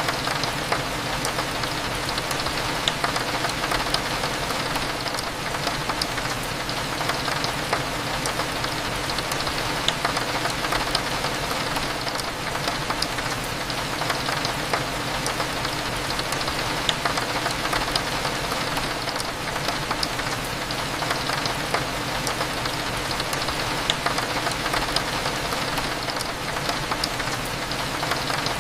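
Steady rain with scattered droplets ticking, over a low, even hum.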